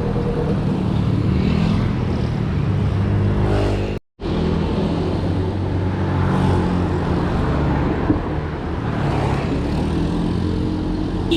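Road traffic: motor vehicle engines running steadily close by. The sound cuts out completely for a moment about four seconds in.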